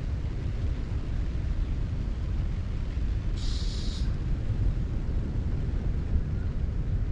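Strong wind buffeting the microphone: a steady, gusty low rumble. A brief high hiss about three and a half seconds in.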